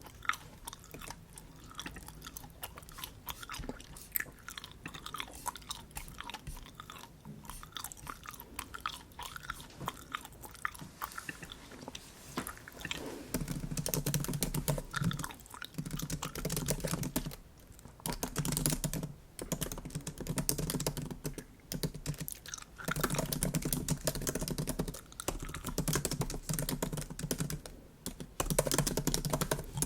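Bubble gum being chewed close to the microphone, with quick wet, smacking clicks. About halfway through the chewing gets louder and comes in bursts of a few seconds with short pauses between.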